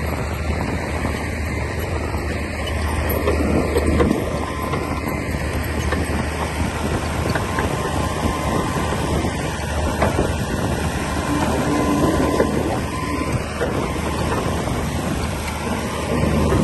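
Komatsu D60P crawler bulldozer running steadily at work, its diesel engine producing a constant low rumble.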